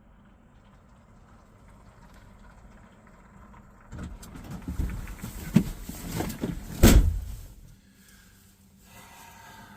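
Rummaging and clunking inside a vehicle, starting about four seconds in, with two loud thumps close together, then dying away.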